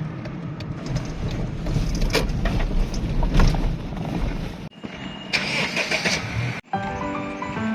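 Car on the move: a steady low rumble with scattered knocks and clicks that cuts off abruptly, followed by a brief hiss.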